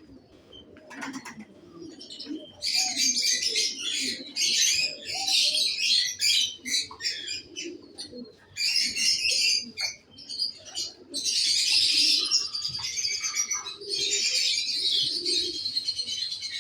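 Fancy pigeons cooing in a loft, under dense, busy high-pitched chirping that sets in about three seconds in and runs in quick bursts.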